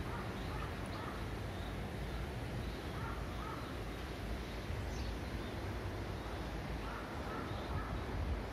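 A few short bird calls over a steady low rumble and hiss.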